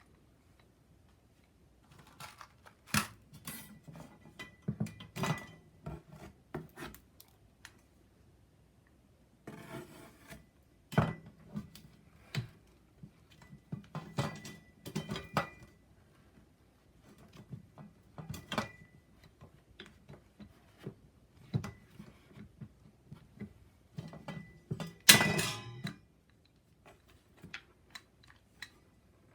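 Thin metal parts of a homemade tower-type fire pit clinking and knocking as they are handled and fitted together, in irregular clusters with a brief metallic ring after many of the knocks. The loudest clatter comes about 25 seconds in.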